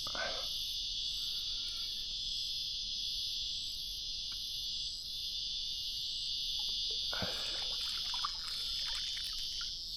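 Steady high-pitched insect chorus shrilling without a break, with a few faint brief knocks and rustles about seven seconds in.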